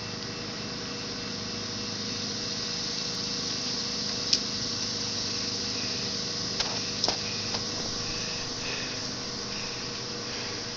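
Steady hissing background noise with a few brief sharp clicks, one about four seconds in and a cluster around seven seconds.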